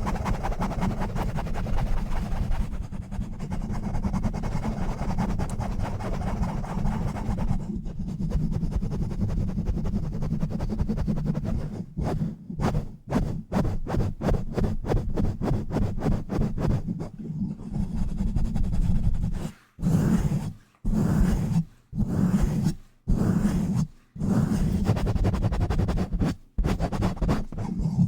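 Hands rubbing and scratching fast and hard directly on a bare microphone with no filter or cover, a loud deep rubbing noise. About twelve seconds in it breaks into quick short strokes, about four a second. Near the end come slower strokes about one a second, with brief gaps between them.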